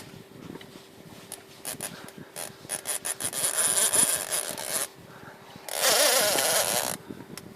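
Fishing reel's drag buzzing as a hooked striped bass pulls line off, in two runs: a longer one from about two and a half seconds in and a shorter, louder one about six seconds in. A faint steady hum runs underneath.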